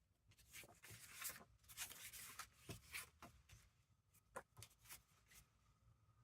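Faint rustling of paper pieces being handled and shuffled, with a few light taps and ticks.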